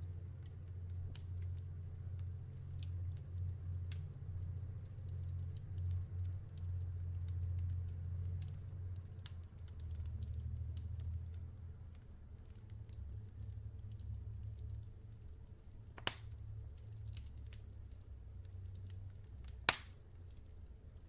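Log fire crackling, with many small snaps over a low rumble and two sharp, louder pops near the end.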